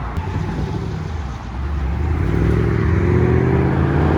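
A car engine pulling away slowly and getting louder about halfway through, its note rising gently.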